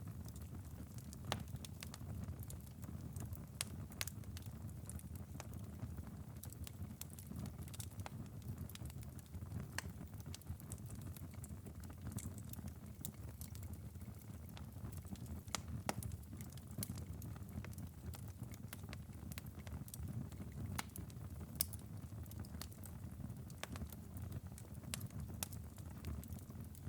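Ember bed of a wood-burning fireplace, late in a long burn, crackling: scattered sharp pops and ticks, some louder than others, over a low steady rumble.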